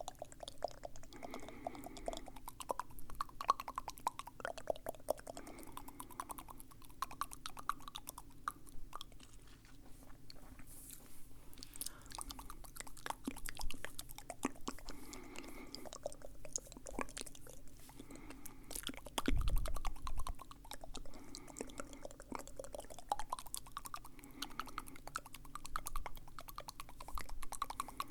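Close-miked wet mouth sounds: a dense stream of small tongue and lip clicks, smacks and crackles, like chewing, with soft mouth noises every couple of seconds. A dull low bump stands out about two-thirds of the way in.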